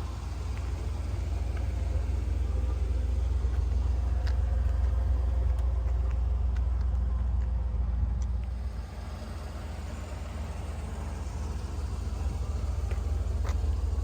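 A 1986 Pontiac Firebird Trans Am running, a steady low rumble that swells over the first few seconds, dips about nine seconds in, then builds again.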